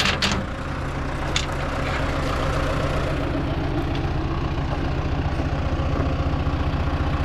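Farm machine's engine idling steadily with an even, pulsing low hum, with two short knocks in the first second and a half.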